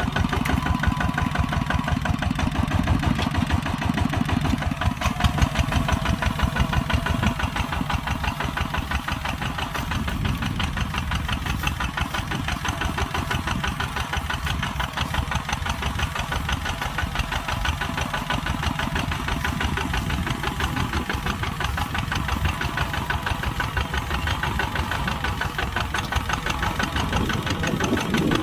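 Kubota tractor's diesel engine running steadily with an even, rapid beat while plowing.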